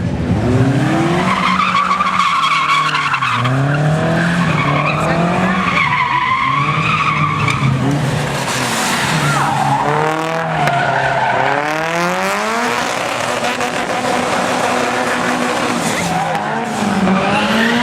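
A car's engine revving up and down over and over, about every couple of seconds, while its tires squeal and skid as the car slides.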